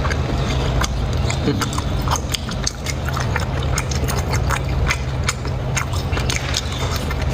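Close-miked chewing and mouth smacking: a person eating, with many irregular wet clicks over a steady low hum.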